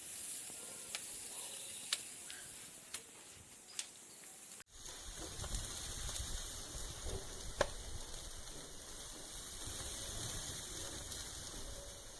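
Meat sizzling on a hot grill, a steady hiss with scattered pops and crackles. About a third of the way through, a cut brings in a low rumble under the sizzle.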